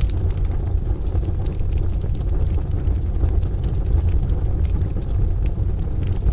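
Wood fire crackling, with scattered sharp pops, over a steady low rumble and hiss of rain and distant thunder.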